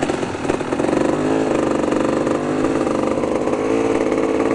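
KTM 500 single-cylinder four-stroke dirt bike engine revving under load as the bike climbs through rocks. The engine note rises about a second in and then wavers up and down with the throttle.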